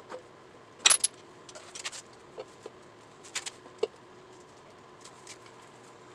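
Scattered sharp metallic clinks and clicks of small metal tools and motorcycle parts being handled during reassembly. The loudest come about a second in, with a few lighter ones later.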